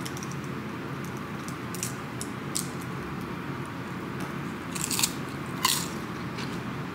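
Crunchy bites into a crispy tortilla chip topped with pico de gallo, a few crunches as it is chewed, the loudest about five seconds in.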